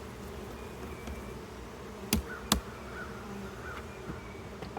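Honey bees buzzing steadily from an open hive, with two sharp knocks about two seconds in, half a second apart, as bees are shaken off hive parts.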